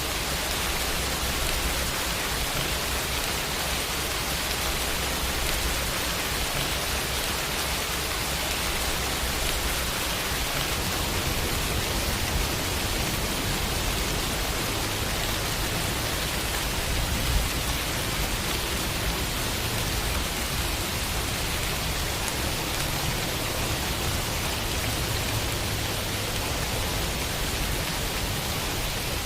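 Steady rain falling on a window, an even hiss of many drops with a low rumble beneath.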